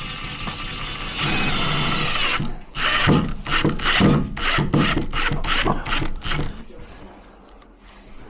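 Hand and power tools at work on a door lock: a tool runs with a steady whirr for about two seconds, then about a dozen sharp strokes follow at roughly three a second before it goes quiet.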